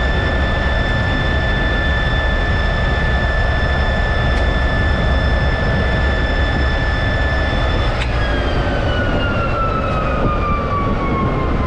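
T-33 jet's turbojet engine running with a steady high whine over a low rumble. About eight seconds in there is a click, and the whine then falls steadily in pitch as the engine winds down.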